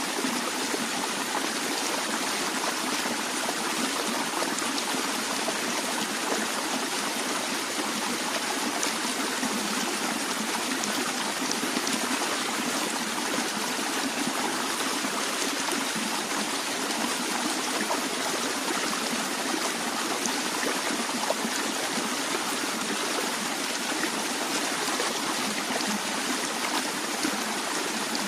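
Stream of water flowing steadily over rocks, a constant rushing with small splashes and trickles throughout.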